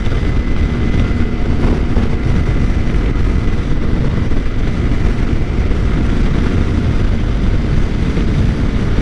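Steady wind rush over a riding mic together with a 2013 Suzuki GSX-R 600's inline-four engine running at highway cruising speed. A faint steady whine sits over the noise and fades about two seconds in.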